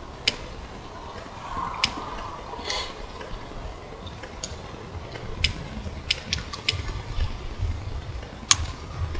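Campfire crackling: sharp wood pops at irregular intervals, about eight in all, over the low rumble of wind on the microphone.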